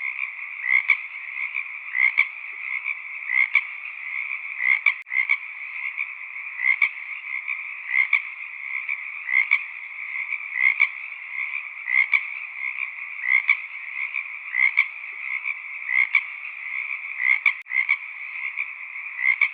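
Frog chorus: a steady croaking background with louder individual calls repeating about once a second, broken by two momentary gaps.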